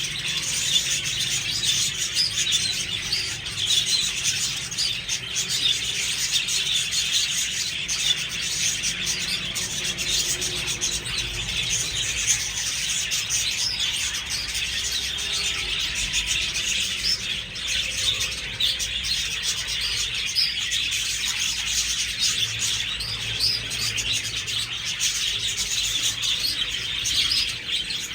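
A flock of budgerigars chirping and chattering continuously, many short overlapping high calls, with occasional wing flaps.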